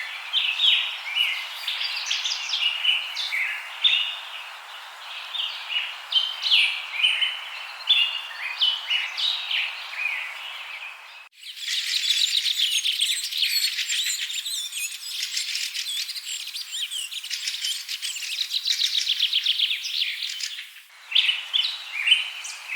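Birds chirping and calling over a steady hiss, many short notes overlapping. About eleven seconds in the sound cuts abruptly to a denser chorus of rapid chirps and trills, and near the end it cuts back to the sparser chirping.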